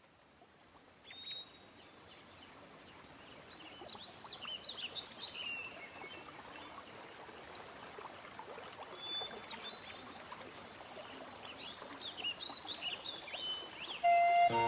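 Songbirds chirping and singing in short repeated phrases over a steady hiss of outdoor ambience, which fades in over the first few seconds. Flute music comes in near the end.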